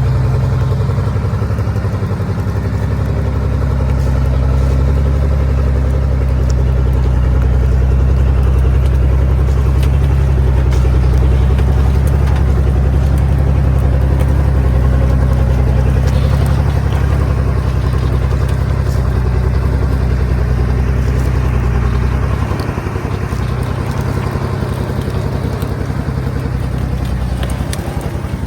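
Small truck's engine running steadily under load as it climbs with a load of wood, with light rattling over it. About three quarters of the way through, the engine note drops and eases off.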